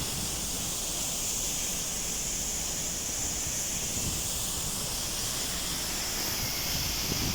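Waterfall rushing: a steady, even hiss of falling water and spray with a low rumble underneath.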